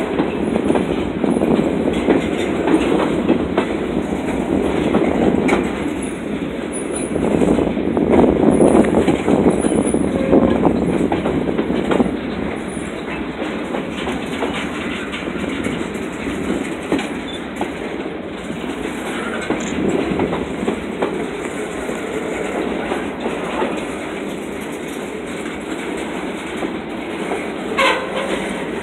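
Freight train cars rolling steadily past a grade crossing, steel wheels clacking over the rail joints, loudest about eight to ten seconds in. A brief high squeal comes near the end.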